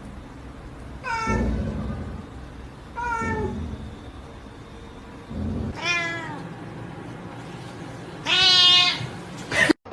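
Domestic cat meowing four times, a couple of seconds apart; the first three calls fall in pitch, and the last is the loudest and longest.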